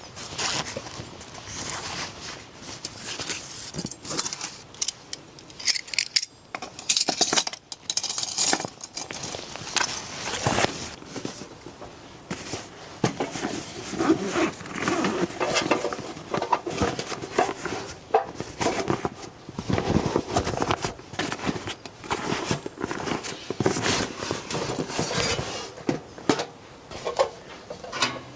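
Irregular clinking, knocking and rustling of objects being handled, like dishes, utensils and gear being moved about.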